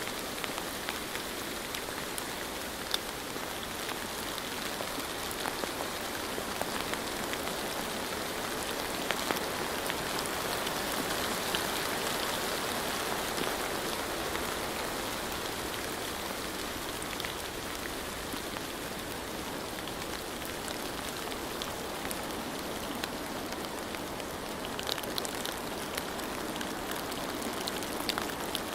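Steady rain falling, with scattered louder drops ticking against a surface.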